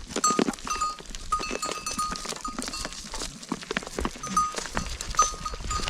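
Livestock on the move: many hooves clattering, with small bells ringing again and again.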